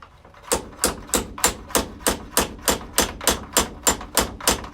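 Hammer tapping on metal in a fast, even run of about three light taps a second, each with a brief bright ring, starting about half a second in.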